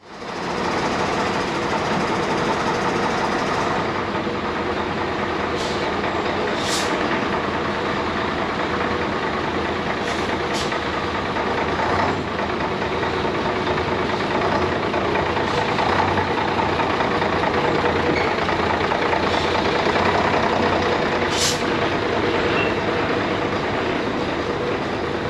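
Steady vehicle running noise, with faint steady tones and a few short, high hisses.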